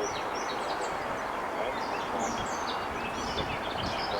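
Birds chirping and twittering in many short, quick calls over a steady, even background noise.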